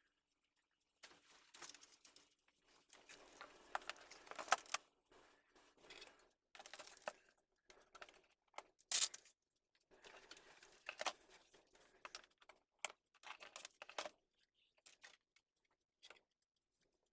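Close-up handling of computer parts and packaging during a PC build: irregular clicks, taps and rustles, with a few sharper clicks standing out.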